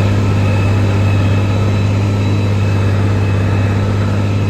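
John Deere tractor's diesel engine running steadily while hauling a dirt pan, a loud constant low drone at unchanging pitch.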